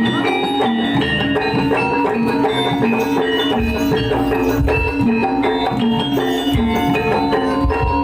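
Live Javanese gamelan accompanying a kuda lumping dance: bronze gong-chimes and metallophones play a repeating melody of ringing notes over the beat of kendang drums.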